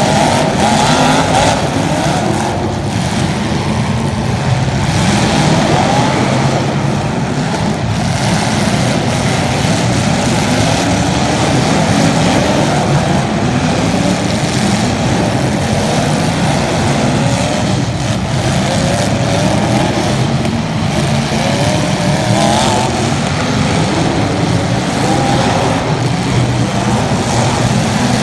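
Several racing engines running at once, their pitches rising and falling as the cars accelerate and lift off around the track.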